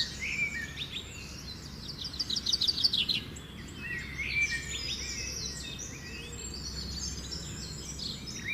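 Robin singing: a fast trill of repeated high notes a couple of seconds in, then varied short, thin phrases, over a steady low background rumble.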